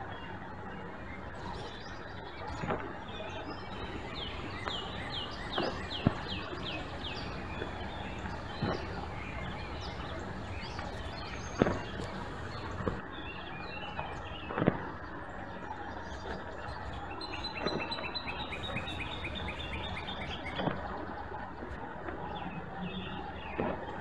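Outdoor yard ambience with a steady hiss, where a songbird sings a rapid series of repeated high notes about four seconds in and a longer trill-like series later on. Short sharp clicks or taps come every few seconds and are the loudest sounds.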